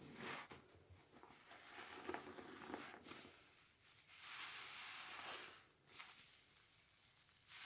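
A sponge soaked with washing machine liquid being squeezed by hand: short wet squelches and crackling suds, then a longer squeeze of a second and a half about four seconds in.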